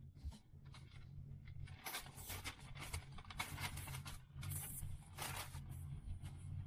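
Rustling and scraping of gear and packaging being handled while a backpack is unpacked: a run of short, noisy bursts from about two seconds in to about five and a half, over a low steady hum.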